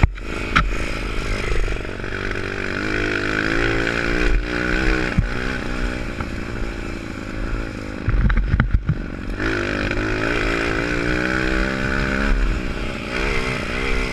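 Pit bike's single-cylinder engine revving up and down as it is ridden, with a cluster of knocks and thumps about two-thirds of the way through.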